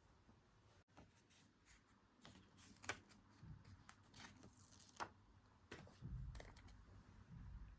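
Faint handling of paper and stationery: soft paper rustles and a few sharp clicks and taps, with low bumps near the end.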